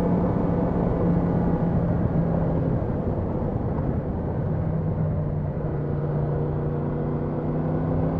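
Yamaha MT-10 SP's 998 cc crossplane inline-four running steadily on the move, under a rush of wind and road noise. From about halfway the engine note climbs slowly as the bike picks up speed.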